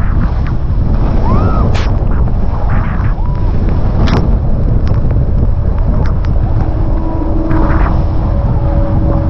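Strong wind buffeting the microphone in a heavy, continuous low rumble while skiing, with scattered short sharp scrapes and clicks over it. A steady hum comes in a little past the middle.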